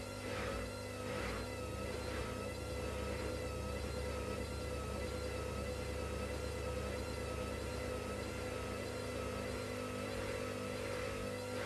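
Washing machine running: a steady motor hum with a slowly wavering whine. A rhythmic swish of the turning drum is heard at the very start and comes back near the end.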